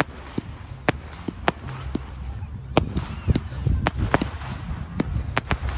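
Fireworks display: a rapid, irregular string of sharp bangs and cracks from bursting aerial shells and comets, over a steady low rumble.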